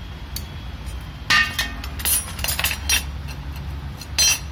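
Metal tools and parts clinking and knocking while a motorcycle's clutch cover is being taken off: a sharp ringing clink a little over a second in, a quick cluster of lighter clinks around two to three seconds, and another sharp clink near the end.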